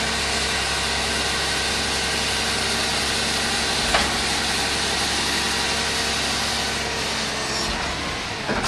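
Garbage truck engine running steadily, with a single sharp knock about four seconds in; the engine eases off slightly near the end.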